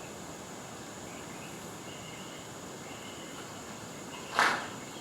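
Outdoor bush ambience with a steady high insect drone, broken about four seconds in by one short, loud, sharp sound.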